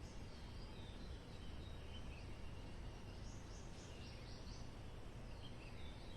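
Faint ambience: scattered short, high bird chirps over a steady low rumble.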